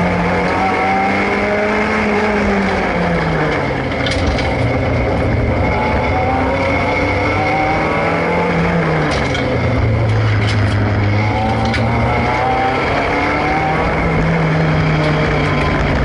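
Race car engine heard from inside the cabin, revs repeatedly rising under acceleration and falling as the driver lifts off, with a deep low-rev stretch about ten seconds in. A few short sharp clicks come through around four seconds in and again around ten seconds.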